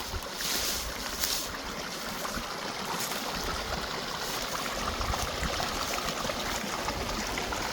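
Creek water running steadily. There are two short rustles in the first second and a half.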